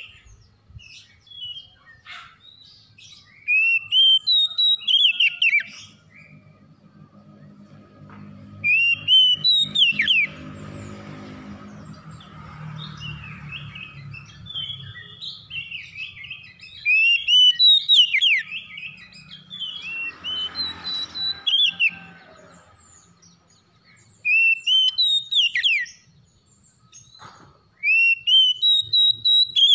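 Oriental magpie-robin (kacer) singing: loud bursts of rising whistled notes repeated every few seconds, with softer, varied chattering phrases in between. A low rumble runs underneath through the middle.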